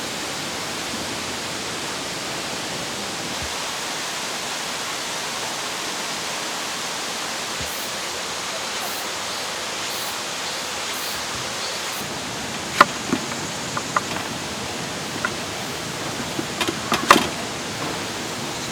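Steady rush of a mountain stream flowing over rocks. A few sharp clicks and short clinks sound over it in the second half, most of them near the end.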